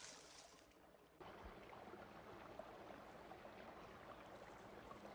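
Faint running water of a small stream, a steady trickle that gets louder abruptly about a second in.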